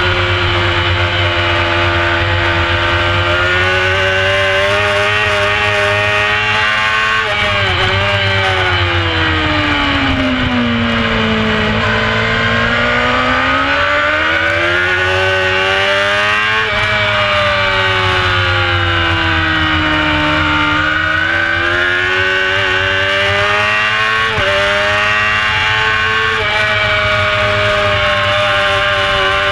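Honda CBR600 F4 racing motorcycle's carburetted inline-four engine at race pace, recorded on board. The engine note falls away over several seconds as the bike slows for a corner, climbs again, dips a second time and climbs, with a few sudden steps at gear changes. Heavy wind rush is on the microphone.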